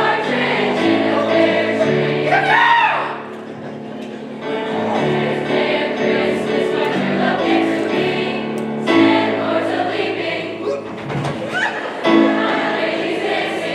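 High school choir singing in several parts, holding long chords that change every second or two.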